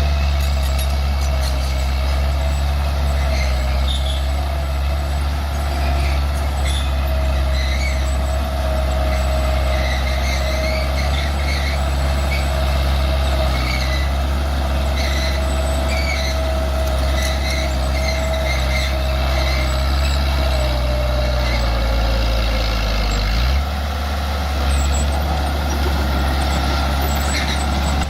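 Bulldozer's diesel engine running steadily under load, with a steady whine above it and scattered light clanks. About three-quarters of the way through, the engine note shifts and drops.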